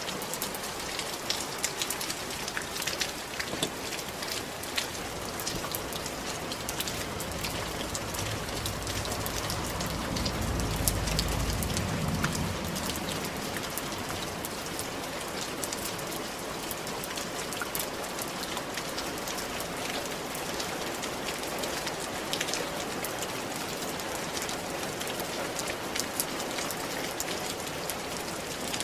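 Steady rain falling on roof tiles, a dense patter of individual drops ticking over a constant hiss. About ten seconds in, a low rumble swells for a few seconds and fades.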